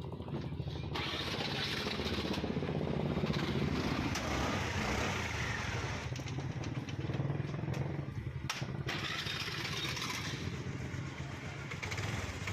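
Honda Activa scooter's single-cylinder four-stroke engine started on the self-starter about a second in, then running steadily.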